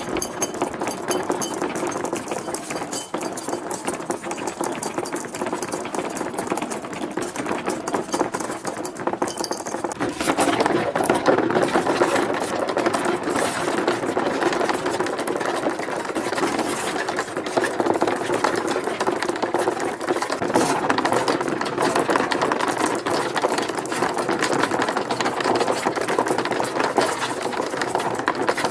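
Many marbles rolling and clattering down plastic marble-run ramps: a continuous dense rattle of small clicks, which grows louder about a third of the way in.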